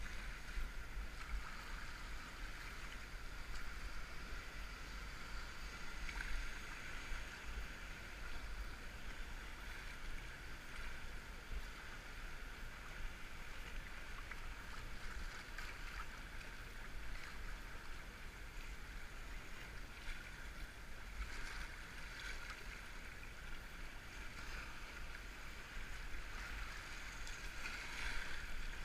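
River water rushing and splashing around a whitewater kayak, muffled by the GoPro's waterproof case, with a few louder splashes now and then.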